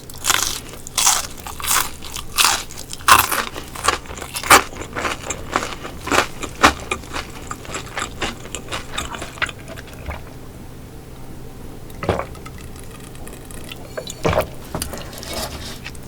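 Close-miked crunching and chewing of crispy cooked fish, dense bites for about ten seconds, then a quieter stretch with a couple of single crunches.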